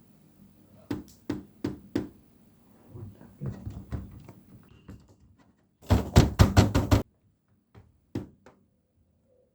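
Knocking: three single knocks, then a spell of softer scattered taps and clatter, then a quick run of about seven loud knocks in one second, and a last knock or two.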